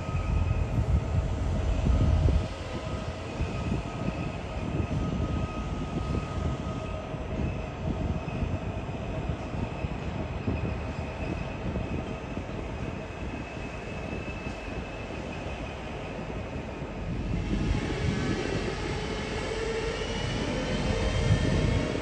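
Train running past or through the station: a low rumble with a steady whine over it. The rumble eases off about two seconds in, and near the end it grows louder again, with a shifting whine.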